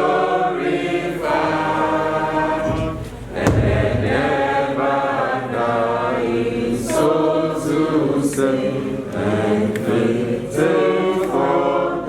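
A choir singing, with a brief low thump about three and a half seconds in.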